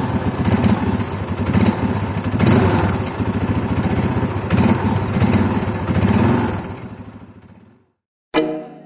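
Toyota Innova's 2.5-litre four-cylinder turbodiesel engine running with a steady, rapid clatter, fading out near the end. A bright chime rings just before the end.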